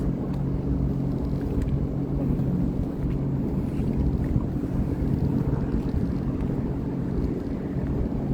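Sea-Doo Fish Pro personal watercraft's engine running at a steady speed, a constant low hum, with wind buffeting the microphone.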